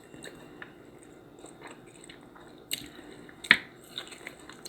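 A person chewing food with soft mouth sounds, and two sharp clicks near the middle of the stretch.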